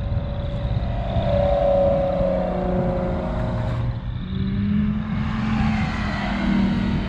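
Car engines running as cars drive by, a low rumble with engine tones that rise and fall, changing about four seconds in.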